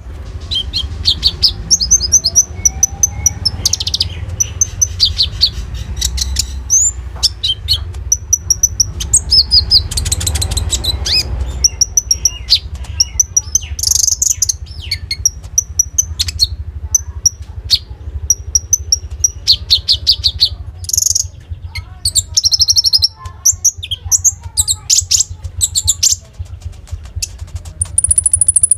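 Konin songbird singing continuously in fast high trills and repeated chirping phrases, with short gaps between phrases, over a steady low hum.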